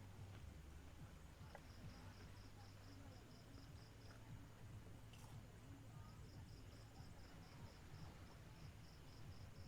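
Faint cricket chirping: two runs of evenly spaced high pulses, about four to five a second, with a break in between, over a faint low steady rumble.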